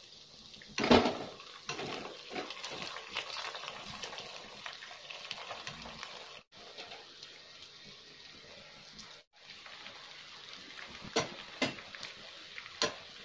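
Fried chicken pieces sizzling steadily in hot oil in a pot as cooked rice is tipped onto them from a metal strainer, with a loud clank about a second in as the strainer knocks the pot. A few knocks of a spoon against the pot near the end as the rice is spread.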